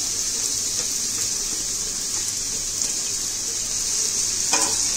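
Grated pumpkin sizzling steadily as it fries in ghee in a steel kadai.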